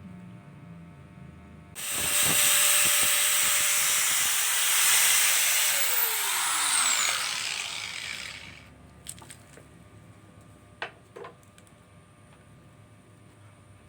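Electric drill boring holes in PVC pipe for the bars of a bird cage: it starts abruptly, runs loudly with a hissy cutting noise for about four seconds, then its whine falls in pitch as the motor winds down. A few faint clicks follow.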